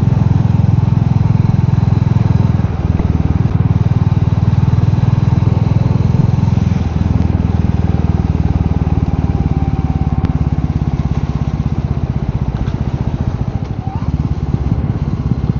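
Royal Enfield Meteor 350's single-cylinder engine running steadily as the motorcycle rides along, easing off a little near the end.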